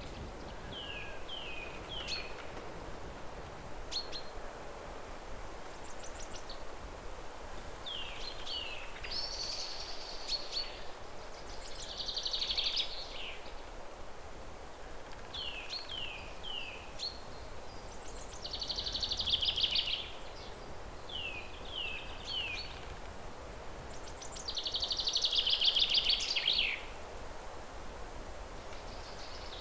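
Songbirds singing over a steady background hiss of outdoor ambience: sets of three short falling whistled notes alternate with rapid high trills about a second and a half long, and the trill near the end is the loudest.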